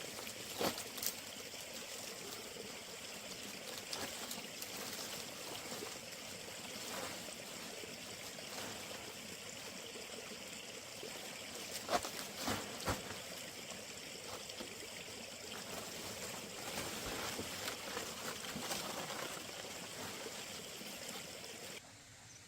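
Running water trickling steadily, with a few sharp knocks about a second in and again around the middle. The water sound cuts off suddenly shortly before the end.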